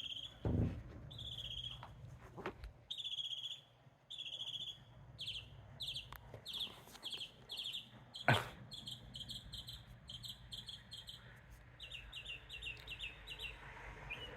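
Northern mockingbird singing: high, clear phrases, each repeated several times in a row before it switches to a new one, with rapid trilled series toward the end. A low thump comes about half a second in, and a sharp knock a little past halfway.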